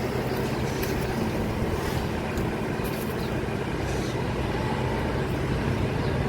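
A steady, even engine hum, with a few faint brief scratchy noises over it.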